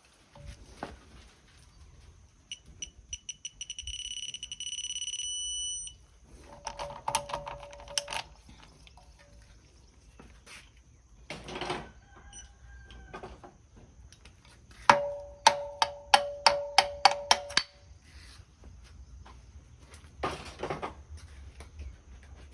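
A ratchet wrench clicking in runs of quick strokes as bolts are tightened. A digital torque adapter beeps in quickening pulses that merge into a steady tone, signalling the set torque has been reached.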